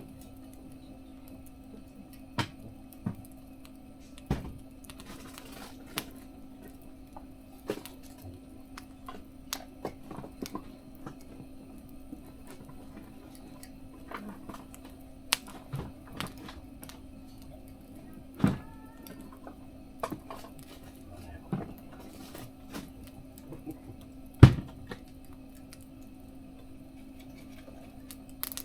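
Wood fire burning in a Nafco Flame Stove Max Mini mesh fire pit, with irregular sharp pops and cracks every second or two over a steady low hum; one pop near the end is the loudest.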